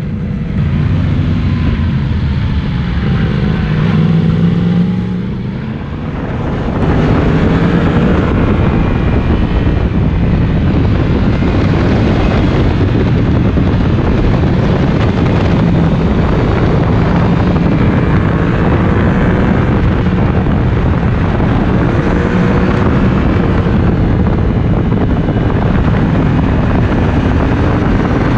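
Yamaha MT-10's crossplane inline-four engine on the move through an Akrapovic exhaust, its pitch rising and falling with the throttle. From about seven seconds in it grows louder and a heavy rush of wind on the microphone covers much of it as speed builds.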